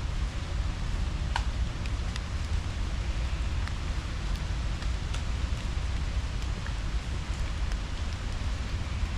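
Steady outdoor ambience: an even hiss over a strong low rumble, with a dozen faint, short high ticks scattered through.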